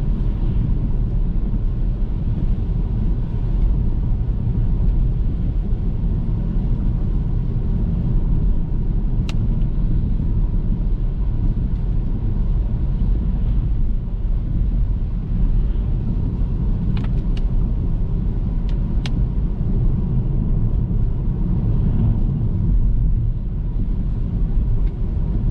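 Car driving at steady speed: a continuous low road-and-engine rumble, with a few brief sharp clicks about a third of the way in and again in a cluster past the middle.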